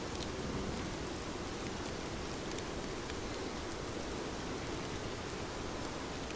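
Steady rain falling, an even hiss of water with scattered small drop ticks.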